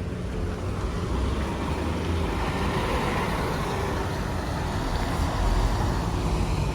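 A bus passing by with its engine running, the noise swelling through the middle and staying loud near the end, over steady street traffic.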